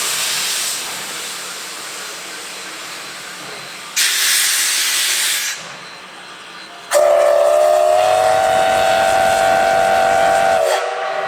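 Steam locomotive hissing, with a louder burst of steam about four seconds in lasting a second and a half, then one long blast of a chime steam whistle, several tones sounding together, sliding up slightly at the start and cutting off shortly before the end.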